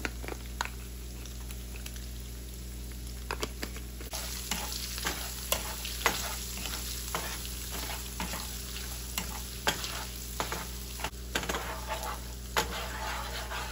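Diced Vienna sausages sizzling in sesame oil in a nonstick frying pan, with a spatula scraping and tapping against the pan as they are stirred. The sizzle gets louder about four seconds in, once the stirring starts.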